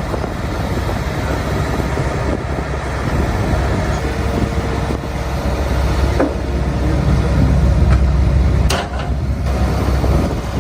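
Heavy diesel machinery engine running under load, a steady low rumble, with a couple of sharp knocks in the second half.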